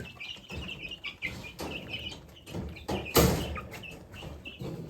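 Chickens clucking and chirping while they feed, with a few short knocks or scuffs, the loudest about three seconds in.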